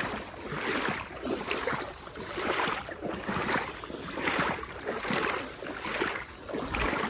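Legs wading through deep floodwater: a swish and slosh of water with each stride, in a steady rhythm of roughly three strides every two seconds.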